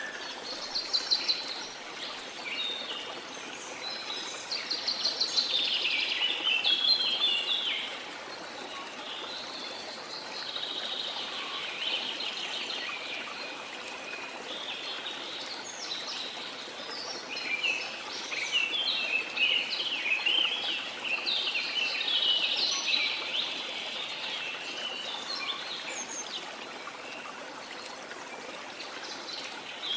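Many birds singing and chirping in a chorus of quick, overlapping calls over the steady rush of a waterfall. The birdsong comes and goes in busy spells.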